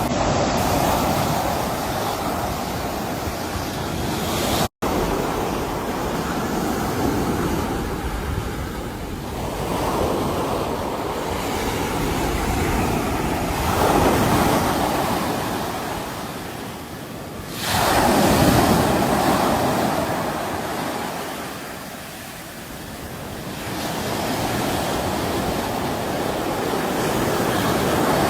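Sea waves breaking and washing ashore in slow surges that swell and fade every few seconds. One wave breaks more abruptly about two-thirds of the way in. The sound cuts out for a split second about five seconds in.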